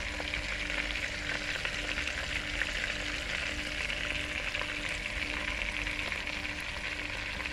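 Lobster tails shallow-frying in hot oil in a metal pot, turned onto their second side: a steady sizzle with scattered small crackles.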